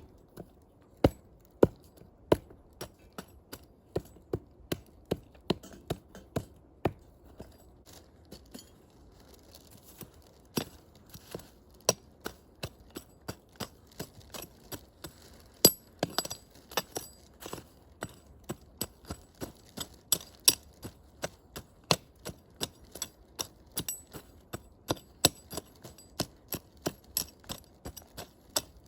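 Wood campfire crackling, with irregular sharp pops, a few a second, and one louder pop near the middle.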